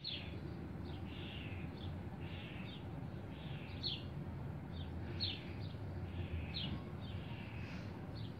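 A songbird calling over and over: short, sharp falling chirps about once a second, each trailing into a softer falling note, over a steady low background rumble.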